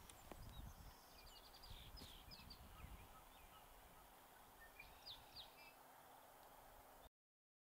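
Faint outdoor ambience with scattered short, high bird chirps and peeps, a quick run of them in the first few seconds and a couple more later; the sound cuts to silence near the end.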